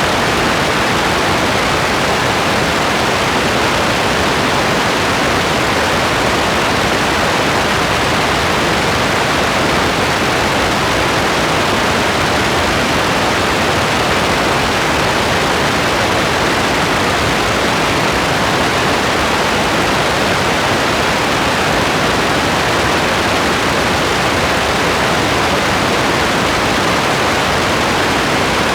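Steady rain: a continuous, even hiss with no single drops standing out and no change in level.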